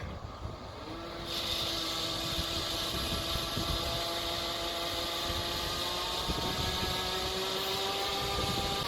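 Case IH 6140 Axial-Flow combine harvester running in the field: a steady engine hum whose tone slowly rises, with a loud hiss joining about a second in as it draws nearer.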